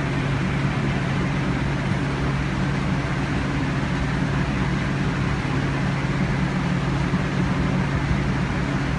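Idling engine giving a steady low drone that does not change.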